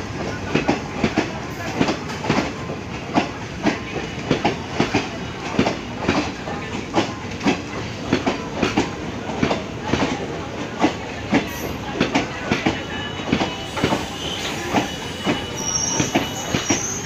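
Passenger coaches of a train passing at speed, their wheels clattering over the rail joints in a quick, even run of about three knocks a second. A thin, high wheel squeal joins in over the last few seconds.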